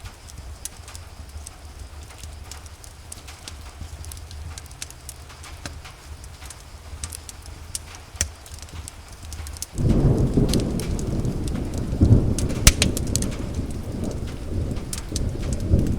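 Rain with many sharp ticks of drops or crackles over a low rumble; about ten seconds in, a loud rolling rumble of thunder suddenly sets in and carries on.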